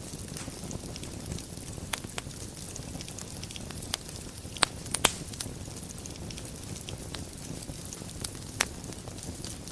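Wood fire in a fireplace burning, a steady low rush with scattered sharp crackles and pops; the loudest pops come as a pair about halfway through, with another near the end.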